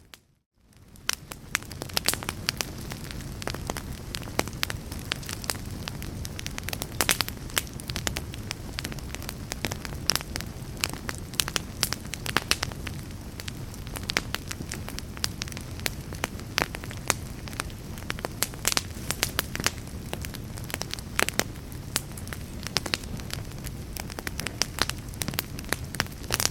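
Wood fire in a fireplace crackling, with frequent sharp pops over a steady low rumble of the flames. The sound drops out for about half a second at the start, then fades back in.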